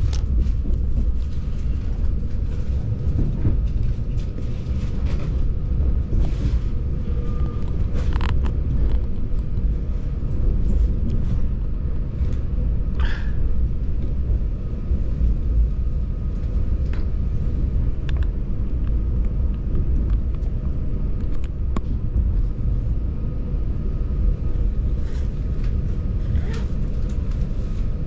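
Train running: a steady low rumble with a faint, steady whine and a few faint clicks.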